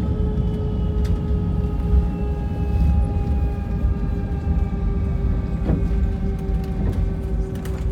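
Airbus A320 jet engines heard from inside the cabin: a steady low rumble with several whining tones that slowly fall in pitch, and a few faint clicks.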